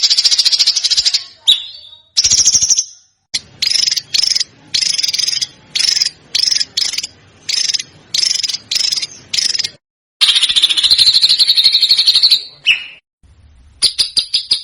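Songbird song with fast, harsh trilled phrases. First a long trill, then about a dozen short bursts at roughly two a second, another long trill, and near the end a rapid, rattling run of ticking notes.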